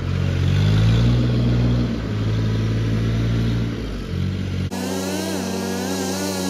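A vehicle engine running and revving up, its pitch rising early on. After an abrupt cut about five seconds in, a steadier engine sound follows, with a wavering higher whine over it.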